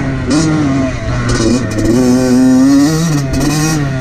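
2014 Yamaha YZ85's two-stroke single-cylinder engine revving up and down as the dirt bike is ridden, its pitch rising and falling several times.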